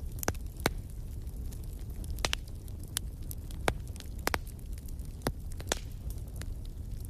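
Wood fire burning in a fireplace, crackling with irregular sharp pops, some louder than others, over a steady low rumble.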